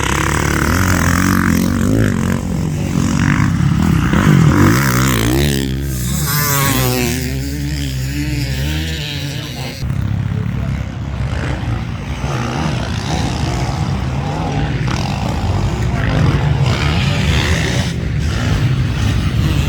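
Motocross bike engine revving hard, its pitch rising and falling quickly as the throttle is opened and shut, most sharply in the middle.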